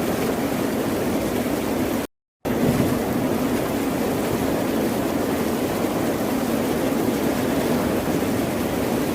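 Ocean waves washing on a shore as a steady rushing surf. The sound cuts out completely for a moment about two seconds in, then resumes.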